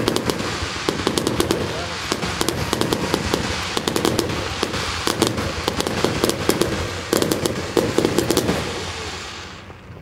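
Firework display crackling and popping in a dense, rapid barrage of overlapping sharp cracks from crackle-star shells, dying down near the end.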